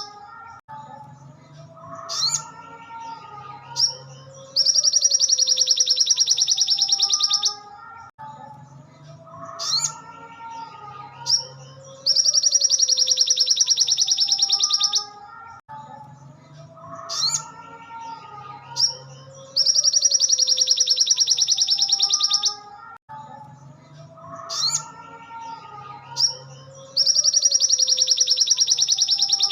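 Looped recording of a sogon (sogok ontong) songbird singing: a long, high, rapidly pulsed trill of about three seconds, repeating about every ten seconds, with softer varied chirps and whistles between the trills.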